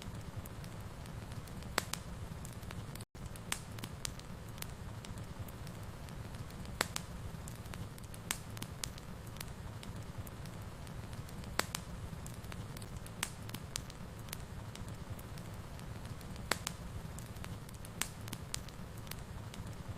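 Wood fire crackling in a fireplace: a steady low rumble of flames with sharp pops every second or two. There is a split-second dropout about three seconds in.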